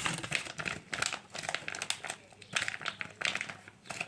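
Plastic crinkling and rustling in irregular bursts as it is handled and squeezed close to the microphone.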